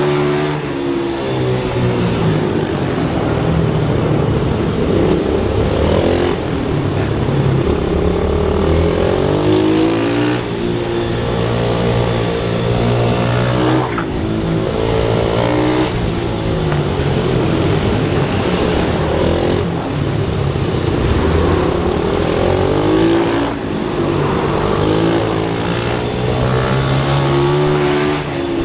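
Pit bike engine revving hard, its pitch rising and falling again and again every few seconds as it accelerates and backs off around the track.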